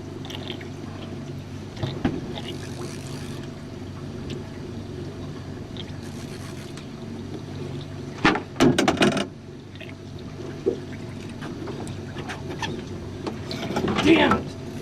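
Steady low hum of a small boat on open water, with a loud, sudden clatter about eight seconds in lasting about a second.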